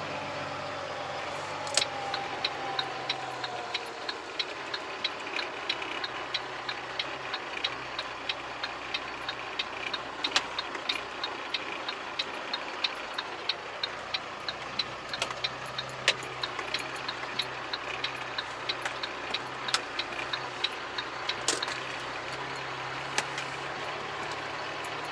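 Volvo VNL truck's diesel engine running steadily, heard from inside the cab. A fast, even ticking starts about two seconds in and stops a few seconds before the end, with a few louder clicks among it.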